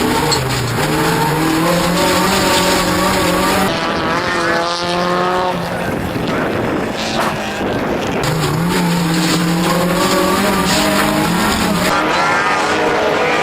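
Offroad race car engine revving hard, its pitch climbing and dropping again and again as it goes through the gears.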